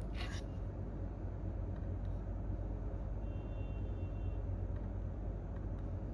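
Steady low rumble of office room noise, with no typing. A short burst of noise comes right at the start, and a faint high steady tone is heard from about three to four and a half seconds in.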